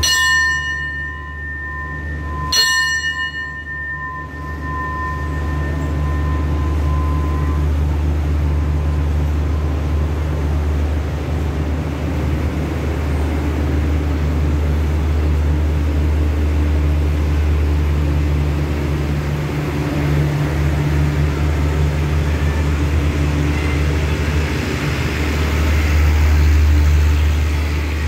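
A station bell struck twice, about two and a half seconds apart, each strike ringing and fading, signalling the train's departure. Under it the steady low drone of the train's Hitachi diesel-electric locomotive runs on as the carriages start rolling out, growing louder near the end.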